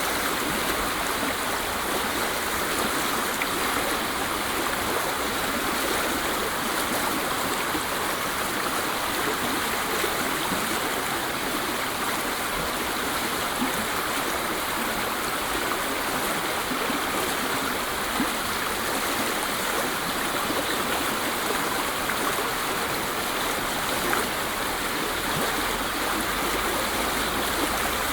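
Waterfall rushing: a steady, even sound of falling water with no breaks.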